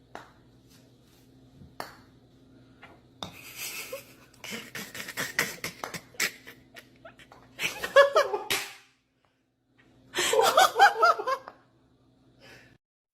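A person laughing in two bursts of short, repeated 'ha' sounds, about eight and ten seconds in, after scattered clicks and rustling.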